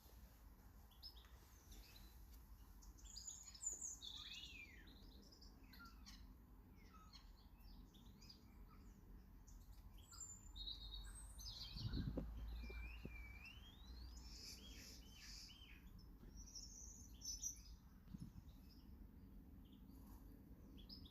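Small garden birds chirping and calling faintly: many short high notes, with a few sweeping whistles. A brief low rumble comes about halfway through.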